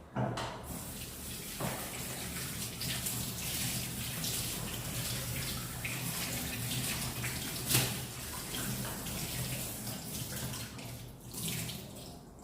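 Water running steadily from a kitchen tap, starting suddenly and shut off near the end, with a few louder splashes along the way.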